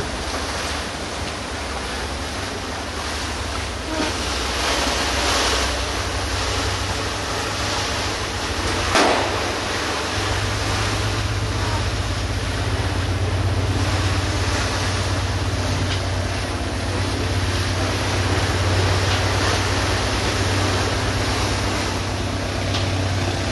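A boat under way at sea: wind and rushing water over the microphone with a steady low engine drone that grows stronger about ten seconds in, and one short sharp sound a little before that.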